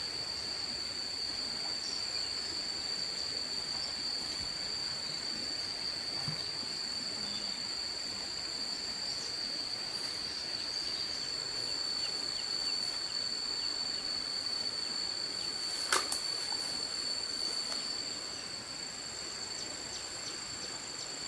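Insects, crickets or the like, singing a steady, high-pitched drone over outdoor ambient noise, with a single sharp click about 16 seconds in.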